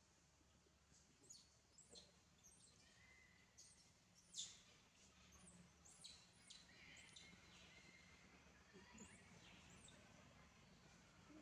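Faint birdsong: many short, high chirps, each sweeping quickly downward, repeated irregularly about once or twice a second over a low steady background hiss.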